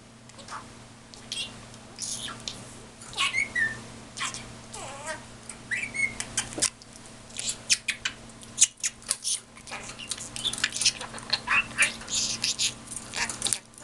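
A pet bird chirping, whistling and squawking in quick short calls, some gliding down in pitch, mixed with fast clicking chatter that gets busier after the middle.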